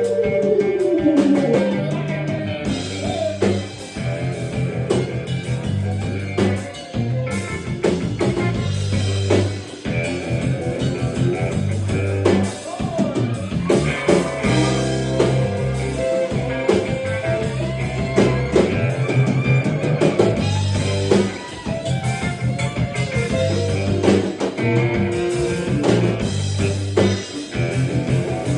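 Live country band playing an instrumental stretch: guitar over a steady bass line and drum kit.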